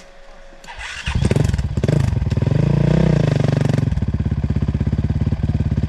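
Sherco 300 two-stroke dirt bike engine starting about a second in, revving up briefly, then settling into a steady, rapidly pulsing idle.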